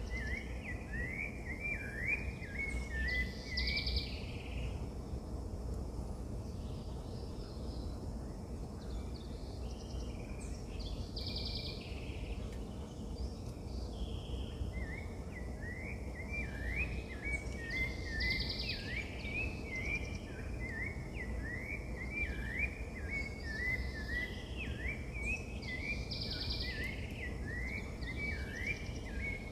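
Birds singing outdoors: one bird repeats quick chirping notes, several a second, early on and again through the second half, while higher calls come about every seven seconds. A steady low rumble of outdoor background noise runs underneath.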